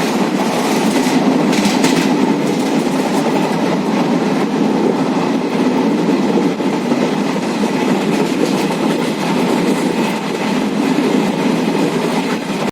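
Passenger express train running along the track: steady rumble and rattle of the coach and its wheels on the rails.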